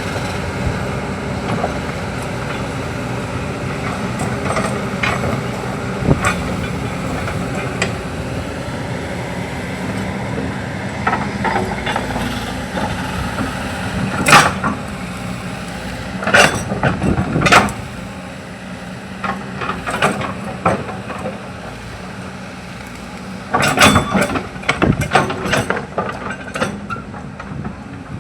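Excavator's diesel engine running steadily under load, with sharp knocks and cracks coming singly and then in quick clusters as it works.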